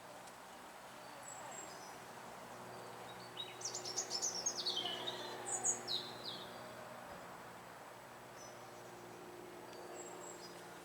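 A small songbird singing a quick phrase of rapid high notes that fall in pitch, about three to six seconds in, with a few faint high chirps before and after. A steady low hum and hiss sit underneath.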